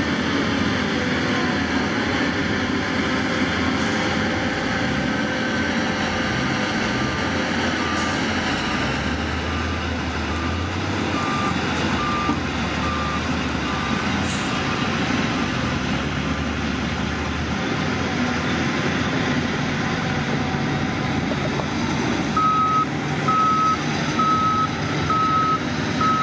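Heavy diesel earthmoving machinery running with continuous engine noise. A reversing alarm beeps faintly through the middle, and a louder reversing alarm starts beeping near the end at a little over one beep a second.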